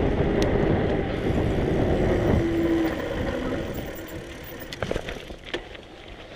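Engine and road noise of a motor vehicle passing, loud at first with a steady tone that drops in pitch, then fading away after about three seconds; a few faint clicks follow near the end.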